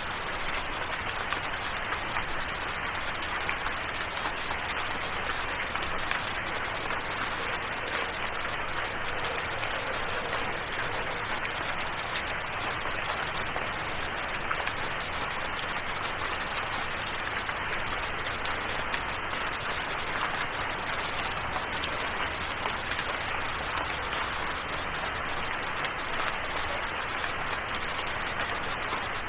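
Steady rain falling: an even hiss of rain with many small drop taps, unchanging in strength throughout.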